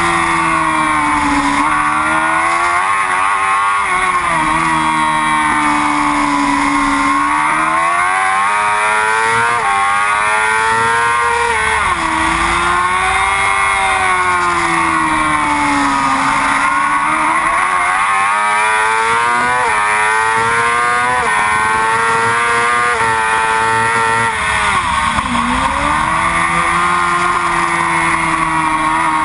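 Yamaha R6 sport bike's inline-four engine at racing speed, its pitch climbing under throttle and dropping sharply at each quick upshift, then sinking as it slows for corners before rising again.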